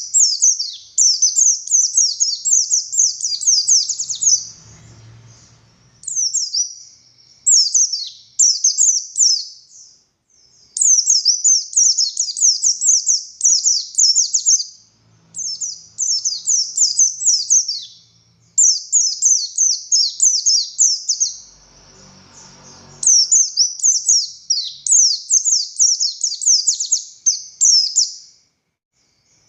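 Oriental white-eye of the buxtoni race singing hard: fast, high twittering phrases of one to three seconds each, following one another with only brief pauses.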